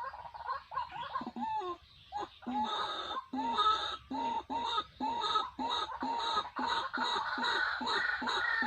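A bird calling in a long series of short, evenly repeated notes. The notes are fainter and quicker at first, then grow louder from a couple of seconds in, at about two to three a second.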